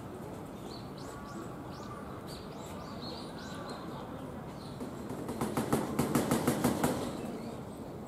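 Faint, short, high bird chirps over steady outdoor background noise. About five seconds in, a loud, rapid run of about ten sharp pulses lasts roughly a second and a half.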